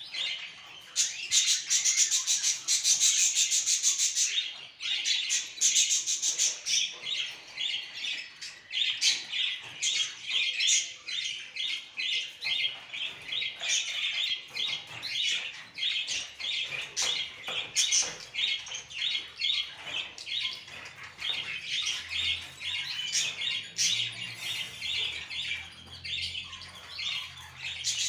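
A group of caged pet birds chattering nonstop with many rapid, high chirps and squawks, busiest in the first few seconds.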